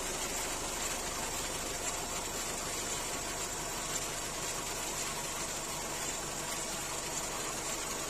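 Opel Meriva B's 1.4-litre turbocharged petrol engine (A14NEL, 120 hp) idling steadily after a cold start, with a steady high hiss over the engine note.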